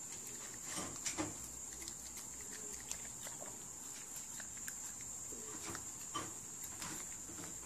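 Shih tzu puppy eating strawberry: soft chewing and small wet mouth clicks, some of them irregularly spaced.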